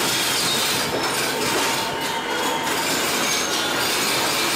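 Sri Lanka Railways Class S10 diesel multiple unit running slowly as it pulls into a station: steady wheel-and-rail and carriage noise, heard through the open door, with a thin wheel squeal over it.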